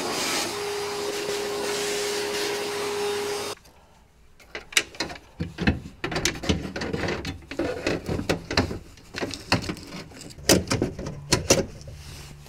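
Vacuum cleaner running steadily with a constant hum, switched off about three and a half seconds in. Then a string of irregular clicks, knocks and rattles as parts are handled inside a car door.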